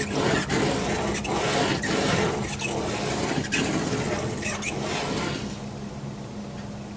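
Hand sanding of dried spackling compound with sandpaper: repeated scratchy back-and-forth strokes with short pauses between them, stopping about five and a half seconds in.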